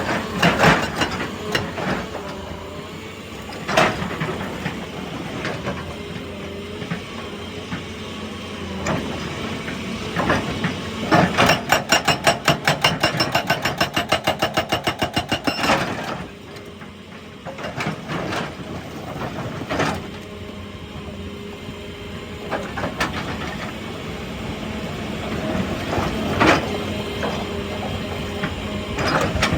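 Excavator working rock: its engine running steadily, with scattered clanks and knocks and, in the middle, a run of rapid, even hammering, about seven blows a second for some four seconds.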